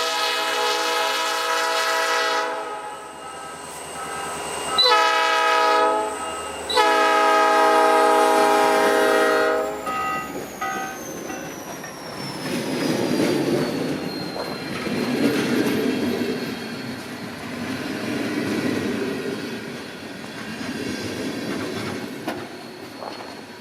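Diesel locomotive's chime horn sounding a long blast, a short one and another long one, the close of a grade-crossing signal. The train then rolls past, wheels clattering on the rails, with a thin whine that falls in pitch and then holds steady.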